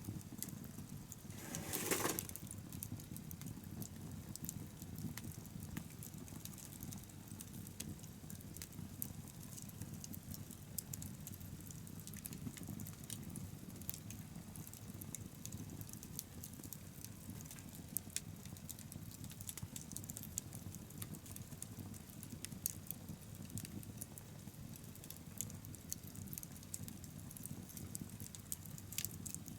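Wood bonfire burning, with dense small crackles and pops over a low steady rumble of flame. About two seconds in there is a brief, louder rush of noise.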